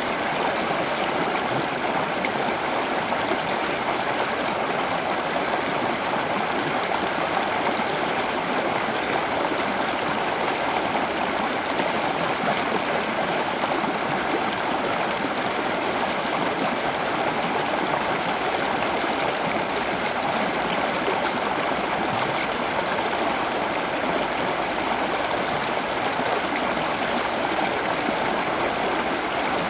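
Steady running water, a continuous splashing rush with no change or break.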